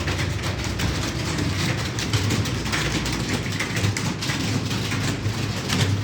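Many computer keyboards being typed on at once, a dense clatter of key clicks over a low hum.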